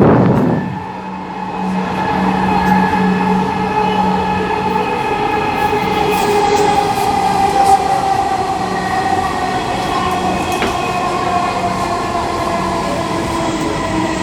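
Dhaka Metro Rail (MRT Line 6) train running between stations, heard from on board: a steady electric whine of several tones over a low hum and constant rolling noise.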